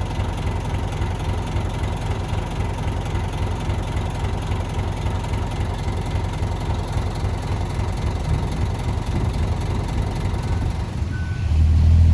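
Diesel engine of heavy earth-moving machinery running steadily with a low rumble and a faint steady whine. Near the end a deeper engine note grows louder.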